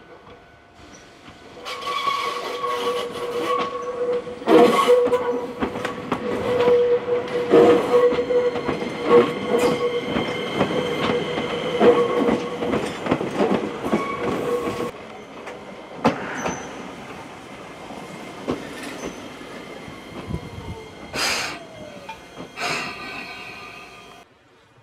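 Electric train running on the rails. Its wheels clack over rail joints and a steady squeal rings for the first half. Then it runs quieter, with a falling whine near the end, before the sound cuts off.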